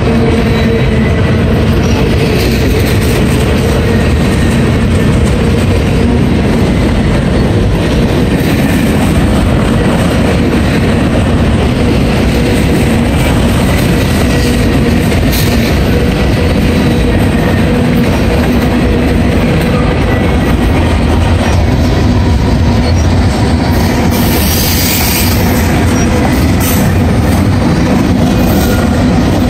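Freight train of covered hoppers and tank cars rolling past: a loud, steady rumble of steel wheels on rail, with a brief higher-pitched hiss near the end.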